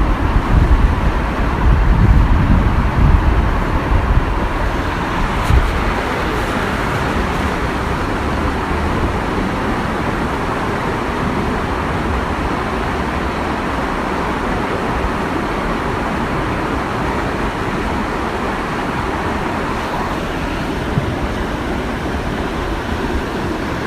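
Waterfall: a steady, even rush of falling water, with a heavier low rumble in the first five seconds.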